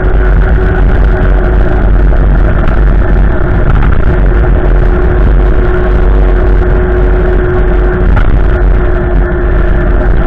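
Strong storm wind buffeting the microphone: a loud, steady rumbling roar with a faint steady humming tone through it.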